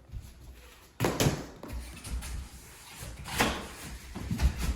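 Mini hockey sticks and a ball knocking and clattering on the floor: a sharp knock about a second in, then scattered clacks and thuds.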